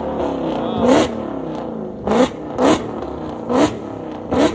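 Car engine being revved in a series of short blips, about five in a few seconds, its pitch swinging up and falling back between them.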